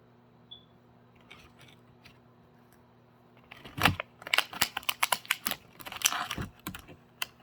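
Quick, irregular clusters of crisp clicks and crunches, starting about three and a half seconds in, from a cardboard nest box being chewed and handled.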